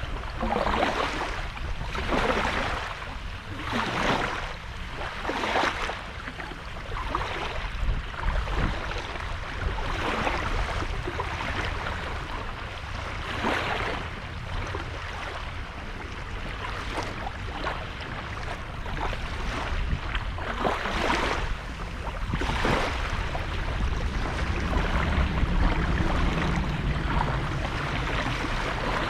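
Small sea waves breaking and washing onto the shore, one surge every second or two, over a steady low rumble.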